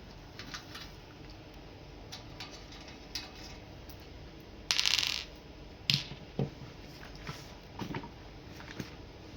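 Small clicks and taps of hands working on an electric kettle's parts, with a short loud scraping rustle about five seconds in and a few sharper clicks after it.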